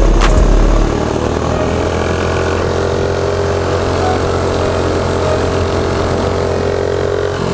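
Mini bike's small single-cylinder engine running steadily, with a heavy low rumble of wind on the microphone for about the first second.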